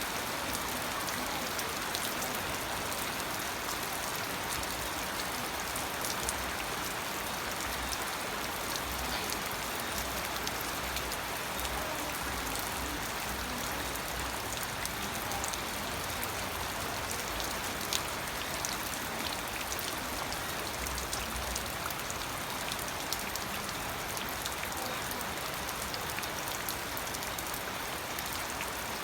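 Steady rain falling, an even hiss scattered with the sharp ticks of single drops striking a surface.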